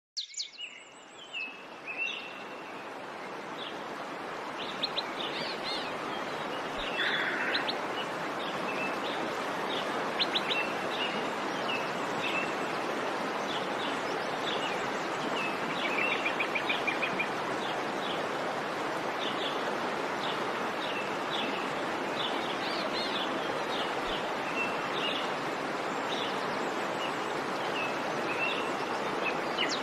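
Songbirds chirping and trilling in short calls over a steady rushing background noise that builds over the first few seconds and then holds.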